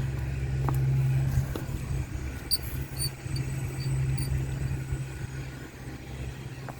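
Lawn mower engine running steadily, a constant low drone. A few short, faint high chirps come about halfway through.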